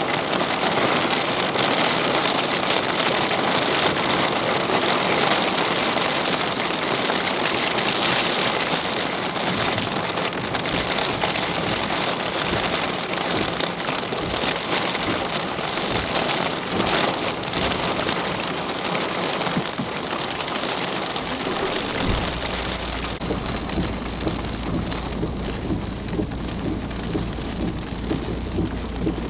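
Heavy rain pouring steadily in a thunderstorm. About three-quarters of the way through, a low, steady rumble sets in beneath the rain.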